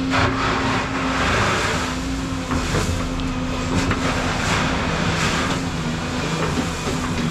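Volvo 235EL excavator's diesel engine running under hydraulic load, its hum shifting pitch as the load changes. Over it come bursts of grinding noise and several sharp knocks from the attachment working stone or concrete.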